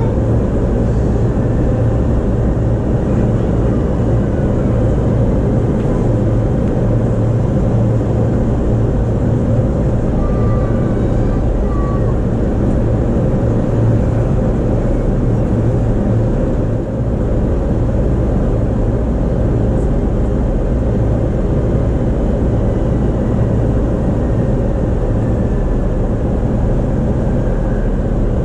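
Steady running noise of a JR East E233-series electric train, heard from inside the passenger car: a continuous low rumble of wheels on rails.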